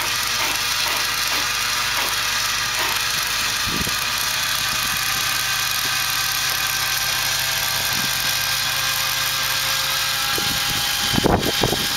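Radio-controlled model airplane's motor running at a steady high pitch, with wind gusting on the microphone.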